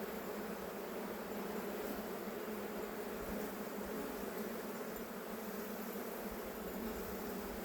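Honeybees buzzing steadily in a low, even hum around an opened hive during an inspection.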